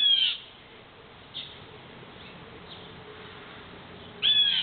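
Blue jays scolding: a quick run of harsh, downward-sliding calls at the start and another short run near the end, with faint single calls and a faint steady hum in between.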